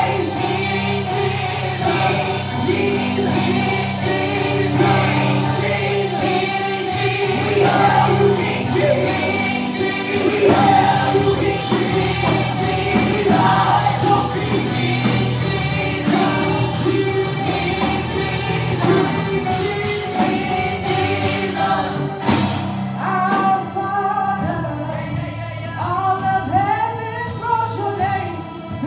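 Gospel choir singing with instrumental accompaniment, under a steady high rhythmic tick that drops out about two-thirds of the way through, leaving the voices more exposed.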